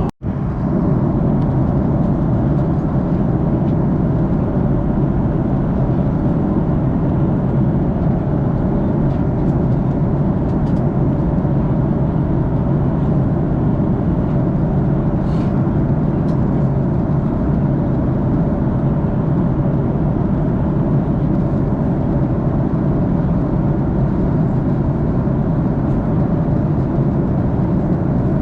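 Steady cabin noise inside an Airbus A330-300 in flight: an even, low rush of airflow and engine noise that does not change. The sound cuts out for a moment right at the start.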